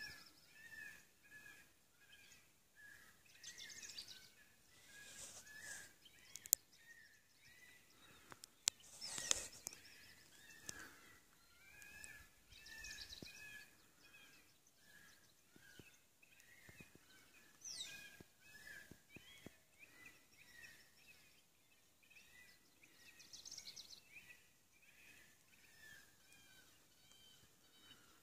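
Faint birds calling with many short, repeated chirps, and a few sharp clicks now and then.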